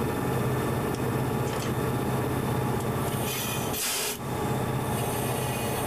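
Train running along the track, heard from on board: a steady rumble and rattle of wheels on the rails, with a brief hiss about four seconds in.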